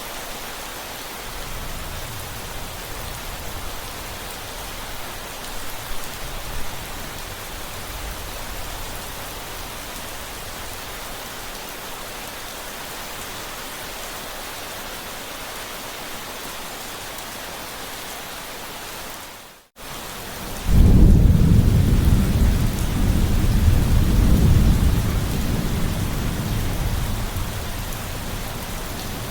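Steady rain falling, with faint low rumbles of distant thunder in the first few seconds. About two-thirds of the way in, the sound cuts out for a moment, and then a loud, long roll of thunder rumbles on to the end.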